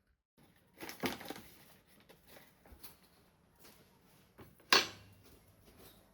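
Scattered small clicks and knocks of things being handled, a cluster about a second in and one sharp, loud knock near the end.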